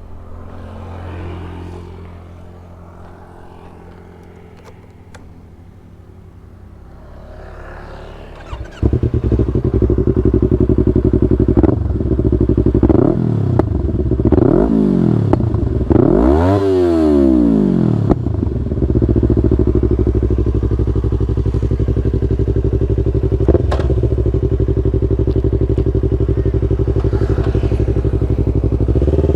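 Yamaha R25 parallel-twin engine breathing through an aftermarket Brave exhaust. After a quieter stretch with a few clicks, it starts up about nine seconds in and is blipped several times, each rev rising and falling, with the largest near the middle. It then settles into a steady idle.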